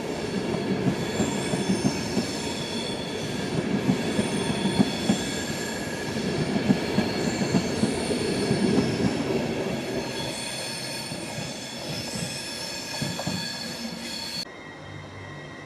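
A train running on track, with rumble and wheel clatter and high-pitched wheel squeal over it, easing off after about ten seconds. Near the end the sound cuts abruptly to a quieter hum.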